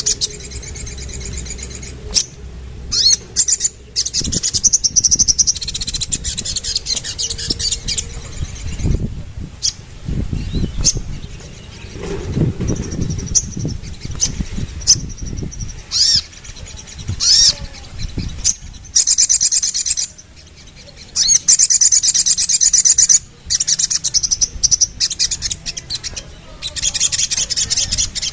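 Little spiderhunter (sogon) singing in long, very fast, high-pitched trills broken by short sharp chirps. Low rumbling noise comes in partway through.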